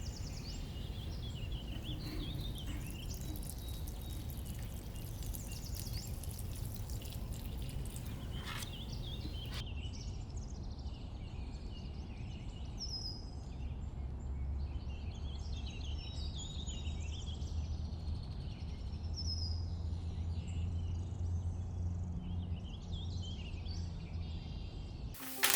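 Outdoor ambience: small birds chirping again and again over a low, steady background rumble.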